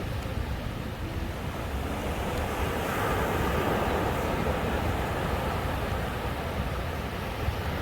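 Sea waves washing onto the shore, a steady rushing noise that swells about three seconds in and then eases.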